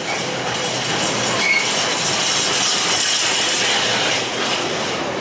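A train running past on the rails, a steady loud rush of wheel and rail noise with a high hiss and faint brief squeals.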